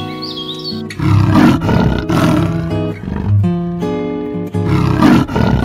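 Big cat growling in two long, rough bursts, the first about a second in and the second near the end, over background music with a plucked guitar.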